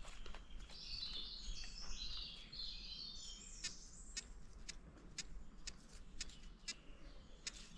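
Faint bird song: a quick run of warbling, chattering notes for the first few seconds, then a series of short sharp clicks about every half second.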